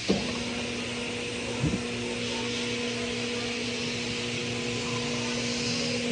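Tire changer turntable motor running for about six seconds with a steady hum, turning the clamped wheel. It starts with a knock, there are a couple of short clacks about two seconds in, and it cuts off at the end.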